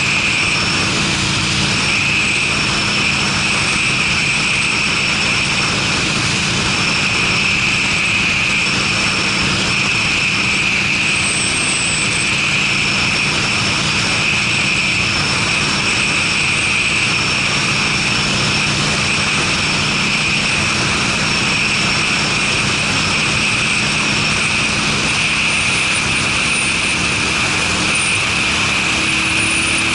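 Harley-Davidson Sportster's V-twin, fitted with Screamin' Eagle mufflers, running at a steady cruising speed under way, with a continuous rush of wind noise over it.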